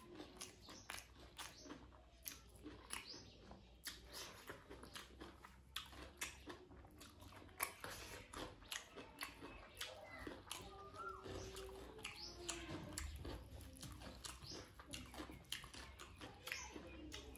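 Close-up wet chewing and lip-smacking of a person eating rice by hand: soft, irregular smacks and clicks, several a second.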